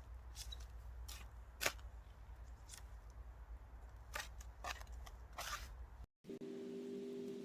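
Faint scattered clicks and rustles of hands handling things, then, after a brief dropout about six seconds in, a steady low hum.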